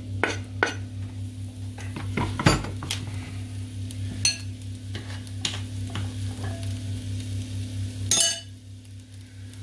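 Onions sizzling in a frying pan while a utensil stirs them, scraping and clicking against the pan, with a sharper knock about two and a half seconds in and a clatter a little after eight seconds. A steady low hum runs underneath.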